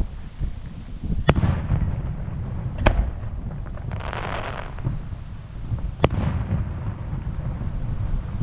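Fireworks bursting: three sharp bangs, about a second in, near three seconds and about six seconds in, with a crackling spray between the second and third. Wind buffets the microphone throughout.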